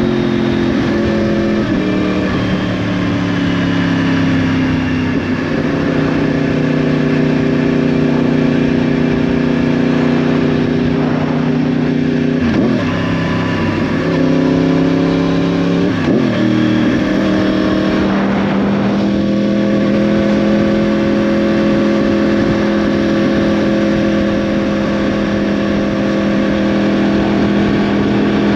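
2010 Yamaha R1's crossplane inline-four engine running through a Yoshimura exhaust at steady revs under way. The pitch drifts down a little at first, then holds, with three brief dips and recoveries in pitch about halfway through.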